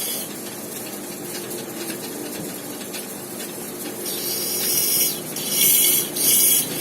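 Rough high hissing that comes in short bursts from about four seconds in, over a faint steady hum.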